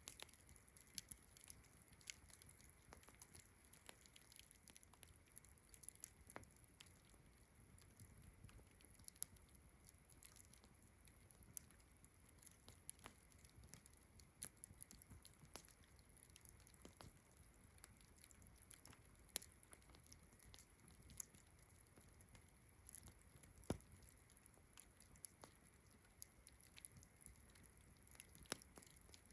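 Campfire crackling, with irregular sharp pops and snaps a few times a second. Beneath it runs a steady, high, faint chorus of crickets.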